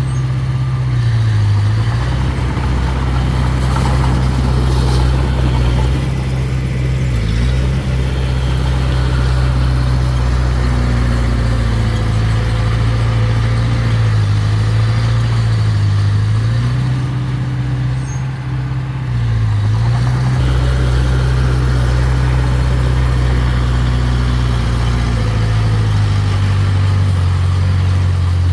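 Mini bulldozer's diesel engine running steadily, its low drone dipping in pitch briefly several times as it takes load.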